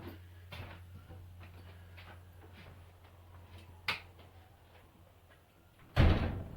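A few light knocks, then a louder thump about six seconds in, over a steady low hum.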